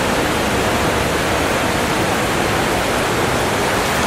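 River water rushing in a steady, loud, even roar of noise.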